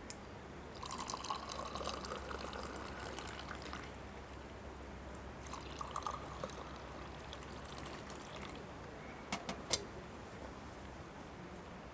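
A drink poured into a cup twice, each pour rising slightly in pitch as the cup fills, followed by two short clicks near the end.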